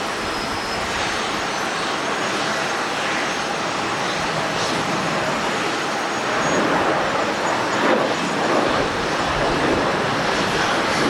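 Jet airliner engines heard close by as a loud, broad rushing noise with a faint high whine, growing louder about six seconds in.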